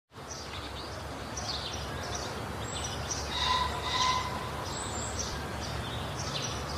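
Birds chirping over steady outdoor background noise, short calls coming every half second or so, with a louder, clearer call about halfway through.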